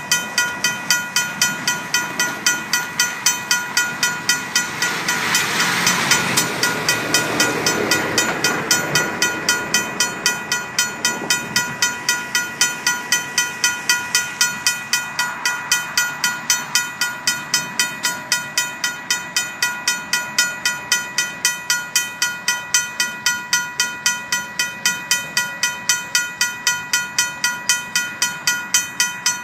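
RACO mechanical crossing bell on a railroad grade-crossing signal ringing, about three even strokes a second, each stroke ringing on. About five to nine seconds in, a rush of noise swells and fades under it.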